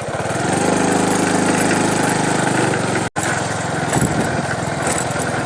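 A small engine running and picking up speed over the first second, then holding steady. It cuts out briefly about three seconds in and comes back rougher.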